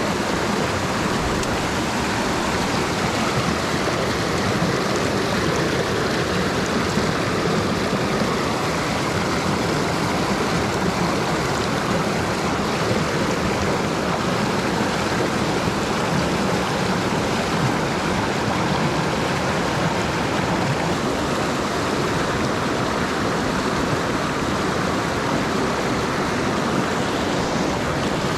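Mountain stream water rushing over rocks: a loud, steady wash of flowing water.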